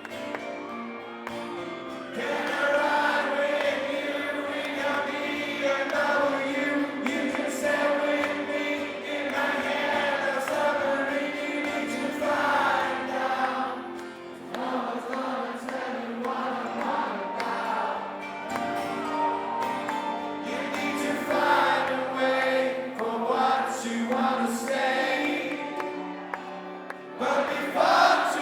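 Live acoustic rock song: strummed acoustic guitar and a male lead vocal, with a large audience singing along.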